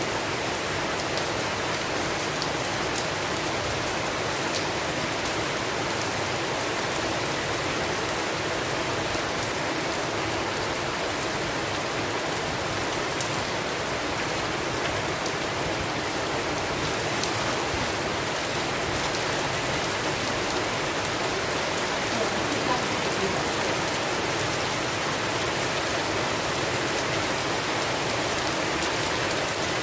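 Steady rainstorm: an even hiss of falling rain with faint scattered drop ticks.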